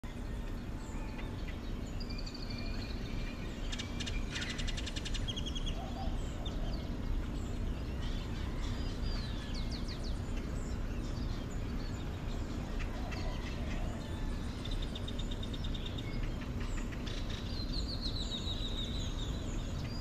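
Tropical forest ambience: several birds chirping, whistling and giving rapid trills on and off over a steady low background noise.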